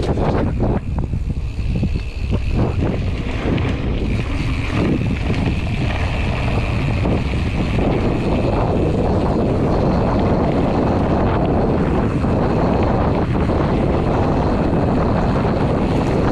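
Wind buffeting the microphone of a camera on a moving mountain bike, a steady loud rumble, with short knocks and rattles from the bike over the trail in the first few seconds.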